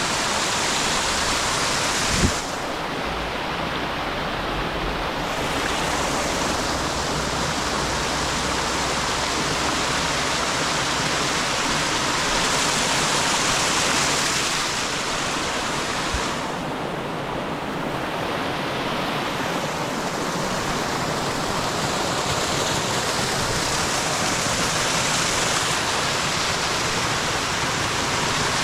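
Rushing river whitewater, a steady loud noise of moving water around a kayak. Two sharp knocks, about two seconds in and again about halfway through.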